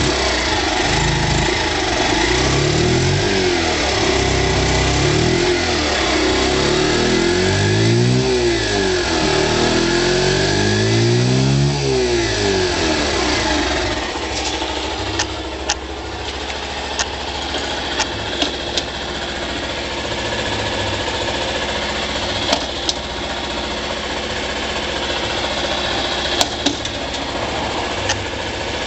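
Honda Press Cub 50's fuel-injected single-cylinder four-stroke engine revved up and let back down several times, then settling into a steady idle with a few sharp clicks.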